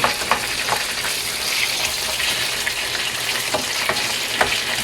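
Chicken drumsticks sizzling in a pan of garlic butter sauce as they are tossed, with a few light clicks.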